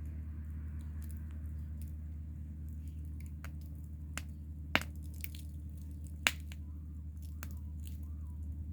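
Wood fire crackling: scattered sharp pops, two of them loud, over a steady low rumble.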